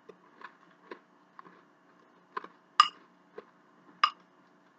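Close-miked eating: a string of short, sharp mouth clicks and smacks from chewing, with two louder ones about three and four seconds in.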